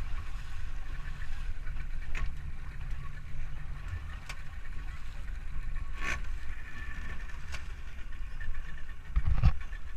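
Steady low rumble of a boat moving over the water, with a few short knocks; the loudest comes near the end.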